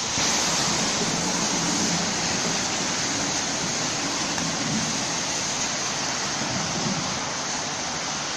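Sydney Trains Waratah double-deck electric train pulling out and receding, its low rumble fading over the first five seconds or so. A steady loud rush of noise, like heavy rain, lies over it throughout.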